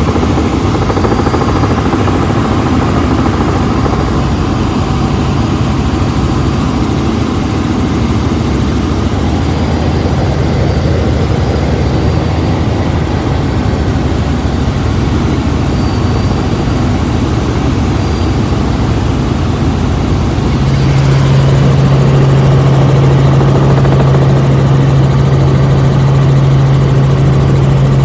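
Helicopter's engine and rotors running steadily in flight. About three-quarters of the way through, a strong low hum sets in and the noise gets a little louder.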